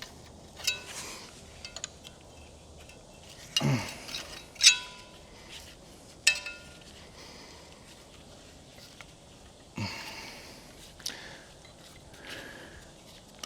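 Scattered metal clinks and knocks of hand tools being handled, about eight in all, each ringing briefly, the loudest near the middle.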